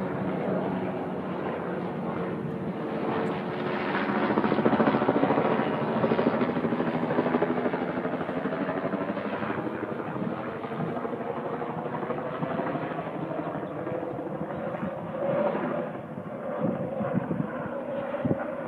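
Aircraft engine running as a plane passes, growing loudest about four to six seconds in and then easing to a steady level.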